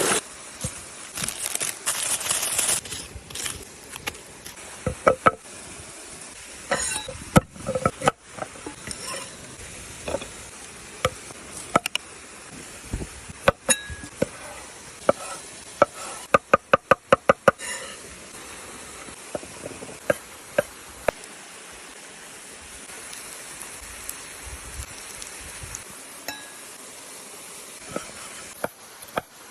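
Clinks and knocks of cooking utensils and dishes during food preparation, scattered irregularly, with a quick run of about eight sharp taps in the middle. A louder rushing hiss fills the first few seconds.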